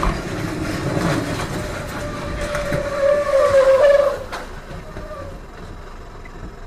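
Road traffic noise with a long tyre squeal, a wavering high tone that builds from about two seconds in, is loudest near four seconds and then cuts out, leaving quieter vehicle rumble.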